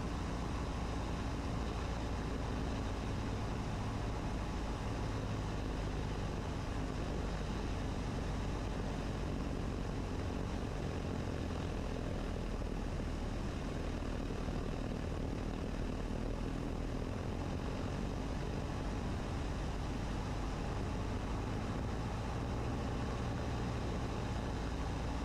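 Cessna 150's four-cylinder Continental O-200 engine and propeller running steadily at reduced throttle on final approach, with air rushing past, heard inside the cockpit.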